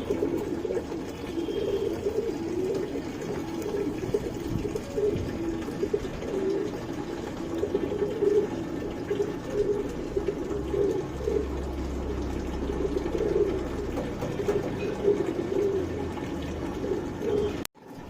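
Domestic pigeons cooing continuously, several birds overlapping in a steady murmuring chorus.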